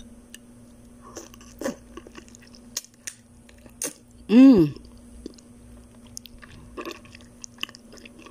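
Close-up chewing and biting as a stewed chicken foot is eaten: scattered small wet mouth clicks and smacks, with a short hummed 'mmm' about halfway through.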